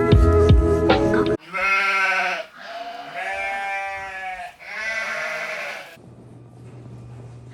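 Background music cuts off about a second and a half in, followed by three long wavering bleats in a row. A low steady hum remains near the end.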